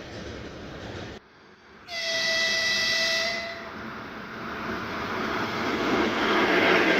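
Freight-train rolling noise breaks off abruptly about a second in. Then an electric freight locomotive gives one steady horn blast of about a second and a half, and the noise of a passing freight train grows steadily louder.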